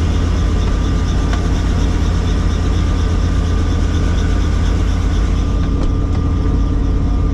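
Helicopter running: a loud, steady low drone with a thin, steady whine above it.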